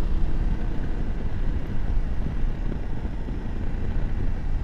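BMW F750GS motorcycle riding at road speed: a steady rush of wind and engine noise, heaviest in the low range, with no distinct tone standing out.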